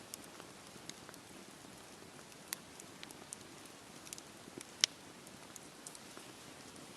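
Campfire crackling in the rain: a steady soft hiss of rain with sharp, irregular pops and crackles, the loudest a little before five seconds in.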